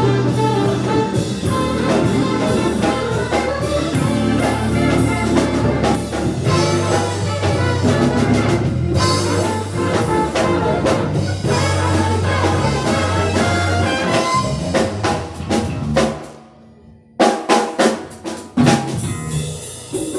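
Live band music with drum kit and horns. About sixteen seconds in the music drops out for a moment, then a few sharp drum hits come before it picks up again.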